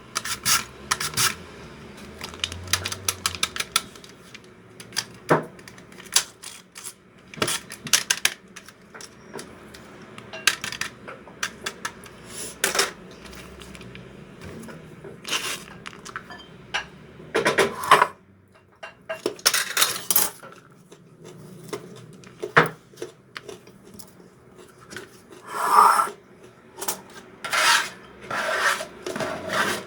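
Kitchen utensils and dishes clinking and scraping, in irregular short knocks with a few longer scrapes.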